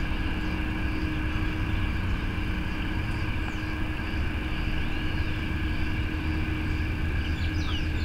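Steady outdoor ambience: a continuous low rumble with a steady hum, and short high chirping calls coming in near the end.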